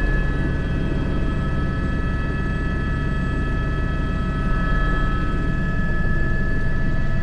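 Airbus H125 helicopter's single turboshaft engine and rotors running steadily, heard from inside the cockpit: a steady high whine over a low rumble.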